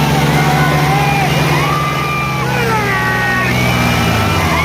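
Diesel tractor engine running steadily under heavy load while pulling in a tug-of-war contest, with a raised voice heard over it.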